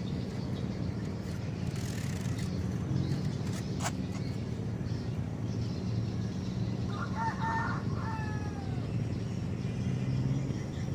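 A steady low rumble of background noise, with a single click about four seconds in and one short bird call, a few falling notes, about seven seconds in.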